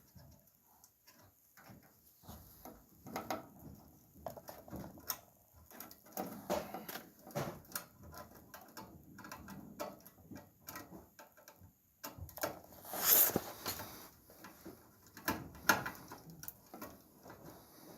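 Irregular clicks, taps and rustling of hands working with small parts and tools, with a louder clatter about 13 seconds in.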